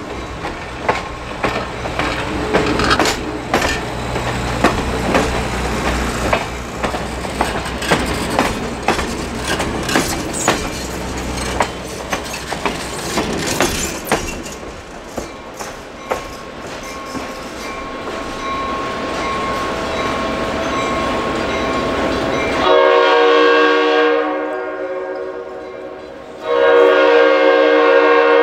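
A train rolling by, its wheels clicking over the rail joints over a low engine rumble that dies away after about twelve seconds. Near the end the locomotive's horn sounds a chord of several notes in two blasts, the second louder.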